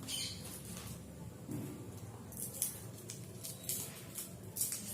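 Printed wrapper of a football-shaped chocolate crinkling as it is unwrapped by hand, in several short crackly bursts.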